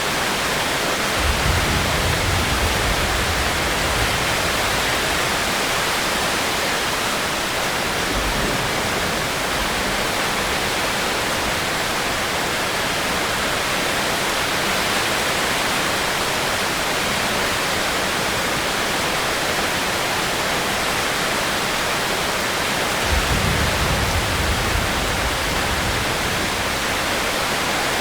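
Steady rain hiss. A low rumble swells about a second and a half in, again briefly around eight seconds, and once more near the end.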